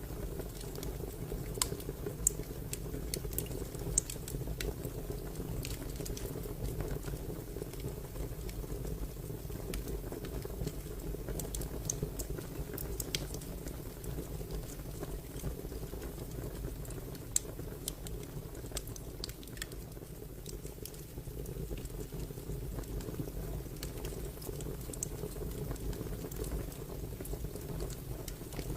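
Fire crackling: irregular sharp snaps and pops over a steady low rumble, with a few louder pops.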